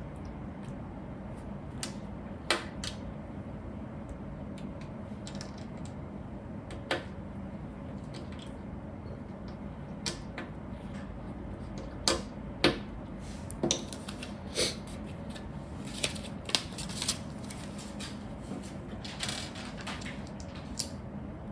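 Lego pieces being handled and pressed together: about a dozen scattered, irregular sharp plastic clicks and clatters, busiest in the second half, over a steady low hum.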